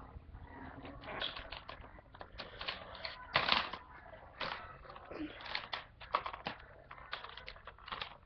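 Hot Wheels track-set packaging and plastic pieces being handled and unpacked: irregular clicks, knocks and rustles.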